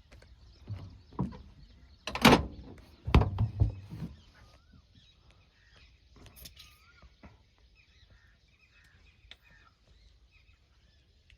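A handful of heavy thuds and knocks in the first four seconds, the loudest about two seconds in. Then quiet with birds chirping.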